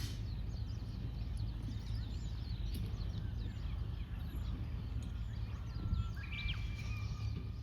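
Many small birds chirping in quick short calls, with one clearer whistled call about six seconds in, over a steady low rumble of wind on the microphone.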